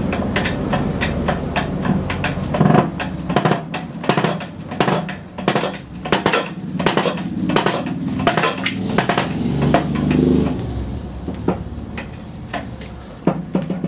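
Small loose metal parts being handled and set down, with many irregular sharp clinks and knocks, several a second, over a low steady hum.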